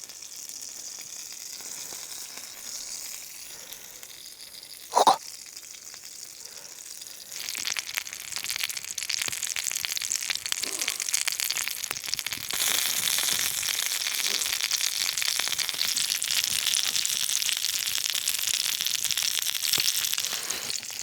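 Burger patties frying and sizzling over a campfire, the sizzle getting louder about seven seconds in and again about halfway through. About five seconds in there is one short, loud sound.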